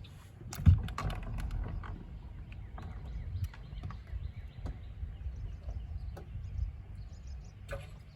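Scattered knocks and clicks over a low, constant rumble; the loudest knock comes just under a second in.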